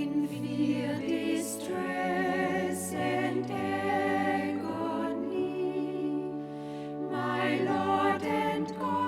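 A choir singing a slow hymn over held low accompanying notes that change every second or so.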